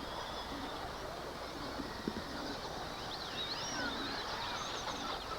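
Electric RC off-road trucks racing: thin, high motor whines rising and falling with the throttle over a steady background hiss, with one brief knock about two seconds in.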